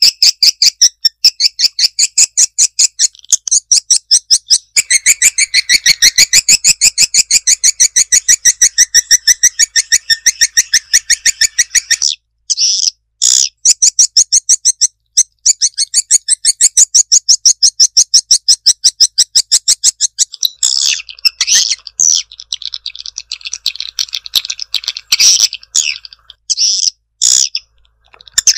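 Swiftlet (walet) lure call: rapid trains of sharp, high chirps repeated several times a second, played to draw swiftlets into a nesting house. The chirping breaks off briefly about twelve seconds in, then resumes. It turns sparser and more irregular in the last third.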